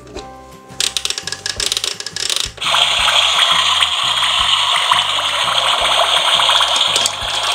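Tayo toy car wash playset: plastic clicking and ratcheting as a toy bus is pushed into it, then from about two and a half seconds in a steady, loud hissing run of the wash that goes on until near the end.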